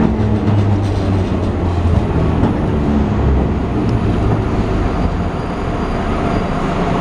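Enshu Railway 30-series train running, heard from inside the car: the low hum of its nose-suspended (tsurikake) traction motors and gears over the rumble of wheels on rail.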